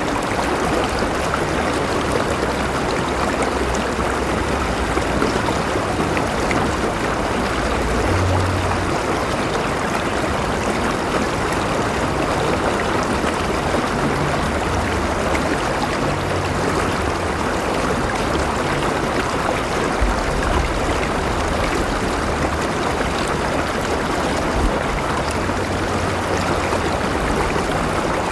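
River water flowing steadily over rocks, an even rushing and babbling with no change in level.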